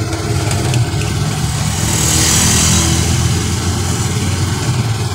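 Motorcycle engine of a motorcycle-and-sidecar tricycle running steadily under way, heard from inside the sidecar along with road and wind noise. A higher hiss swells briefly about two seconds in.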